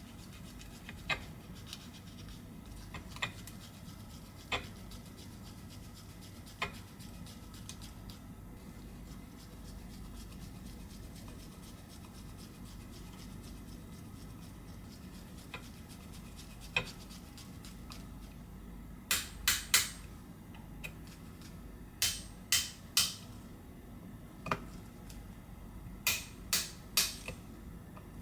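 Small precision tools clicking and tapping on an iPhone 11's frame and internal parts: a few isolated light clicks, then three quick groups of about three sharp clicks in the second half. A faint low background noise runs underneath.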